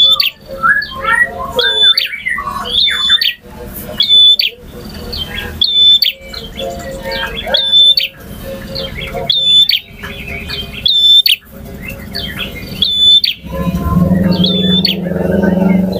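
A male prinia (prenjak) singing: loud, sharp notes repeated about once a second, with rapid twittering chirps between them. A low drone comes in near the end under the song.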